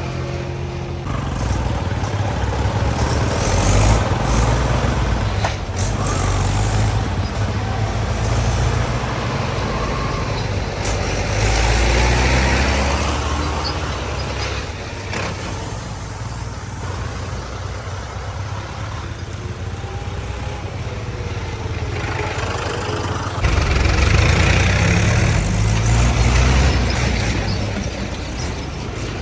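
Diesel tractor engines running under heavy load, the revs rising and falling as they work. The sound jumps abruptly a few seconds before the end.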